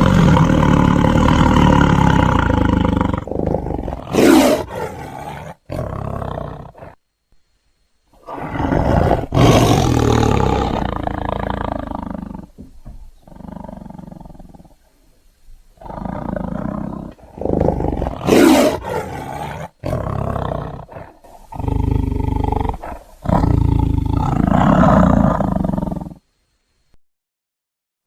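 Tiger roaring, several separate roars one after another, broken by abrupt cuts and short silences.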